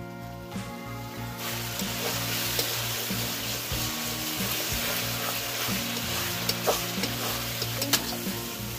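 Food sizzling as it fries in a hot pan, with a spatula stirring that clicks and scrapes now and then; the sizzle starts suddenly about a second and a half in. Soft background music plays underneath.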